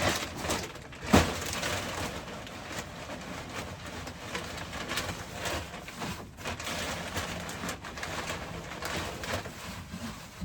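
Loose pine shavings rustling and scraping as they are spread as chicken-coop bedding, with a sharp knock about a second in and the low calls of hens in the coop.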